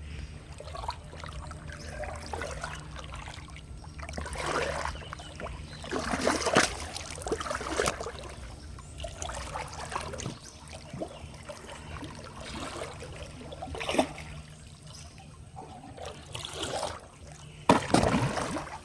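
Water splashing and trickling in irregular bursts, several loud splashes among quieter running water, over a steady low hum.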